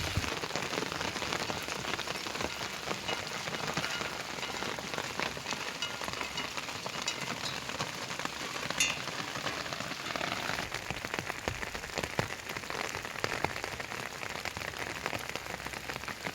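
Heavy rain falling steadily, with many drops pattering on surfaces.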